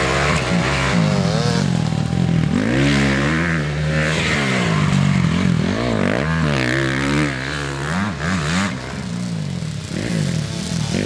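Dirt bike engines revving, the pitch rising and falling over and over as the riders work the throttle and shift around the track.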